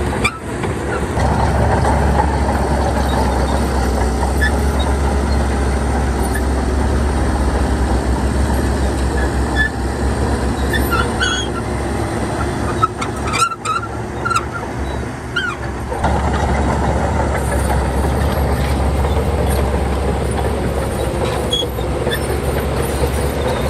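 Heavy diesel earthmoving machinery running steadily with a deep, low hum. Brief high squeaks and clanks come through around the middle, where the sound dips for a moment.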